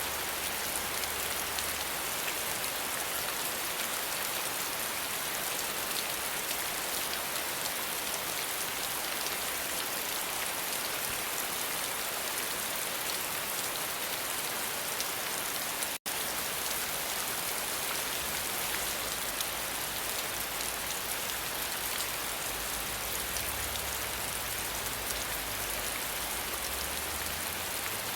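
Steady rain falling, a dense patter of drops. The sound cuts out for an instant a little over halfway through.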